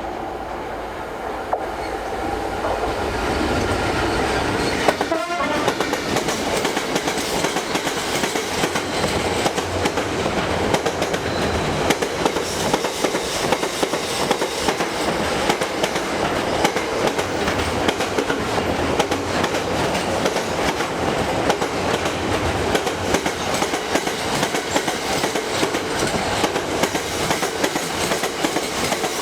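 A Class 66-hauled intermodal freight train passing through at speed. The diesel locomotive's low rumble is heavy in the first few seconds, then a long rake of container wagons clatters steadily over the rail joints.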